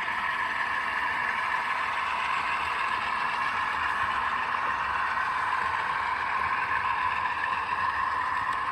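Sound decoders in HO scale model C30-7A locomotives playing the run of a GE 12-cylinder diesel prime mover through small onboard speakers, steady and unchanging throughout.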